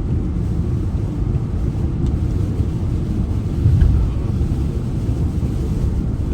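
Steady low rumble of a vehicle's engine and tyres on the road, heard from inside the cabin, swelling briefly a little over halfway through.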